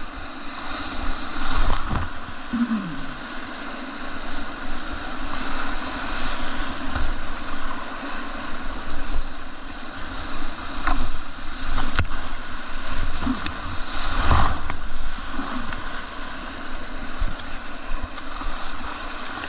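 Rushing whitewater of a river rapid heard from a kayak running it: a steady loud rush of water with repeated louder surges of splashing waves, and a sharp click about two-thirds of the way through.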